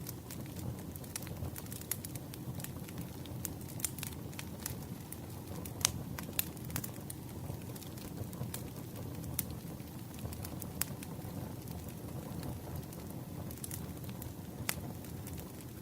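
Campfire burning, with a steady low rumble and irregular sharp crackles and pops of the burning wood.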